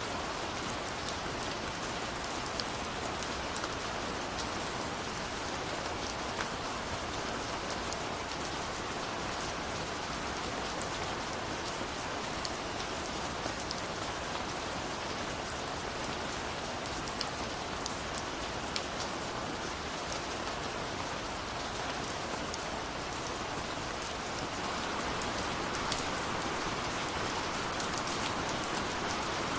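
Steady rain falling, an even hiss with scattered sharp drop ticks; it grows slightly louder near the end.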